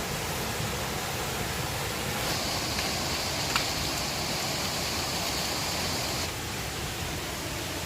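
River water rushing steadily. A higher hiss joins for about four seconds, with one sharp click in the middle of it.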